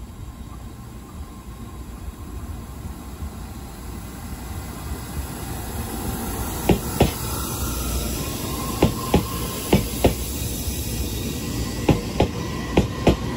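Taiwan Railway passenger train running past a station platform: a low rumble builds, then from about halfway in its wheels click over rail joints in pairs, bogie by bogie, about a third of a second apart. A faint whine rises in pitch near the end.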